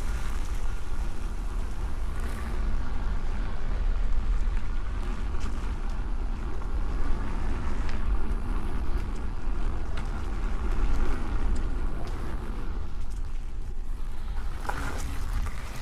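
Wind rumbling on the camera microphone as a Nosfet Apex electric unicycle rides a trail, with the unicycle's hub motor whining faintly and steadily underneath and a few small clicks from the tyre over the ground.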